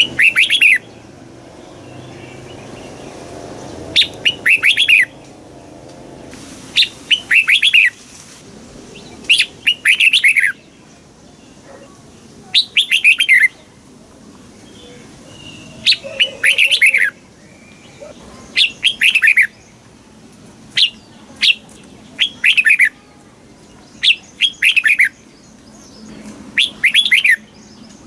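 Red-whiskered bulbul singing: short, bright phrases of a few quick falling notes, repeated every two to three seconds.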